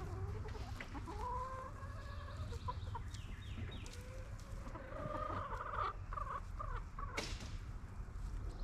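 Domestic hens clucking and giving short drawn-out calls, over a steady low hum, with a brief rustle about seven seconds in.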